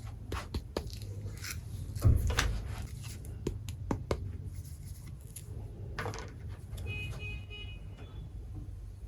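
Miniature toy kitchen pieces being handled: a string of small clicks and taps, one louder knock about two seconds in, and a brief high squeak near the end, over a low steady hum.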